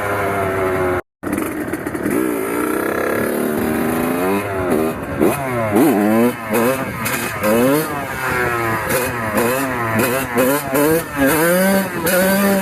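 Kawasaki KX100's single-cylinder two-stroke engine revving up and down over and over in quick throttle blips, its pitch rising and falling sharply. The sound cuts out completely for an instant about a second in.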